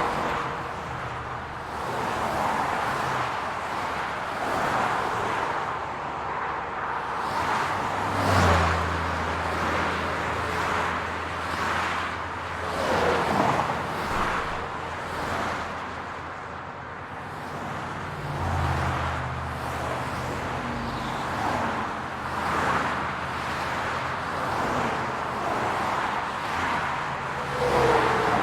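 City road traffic: cars passing one after another in swelling and fading whooshes, with a steady low engine hum from a nearby vehicle coming in twice, about a third of the way in and again past the middle.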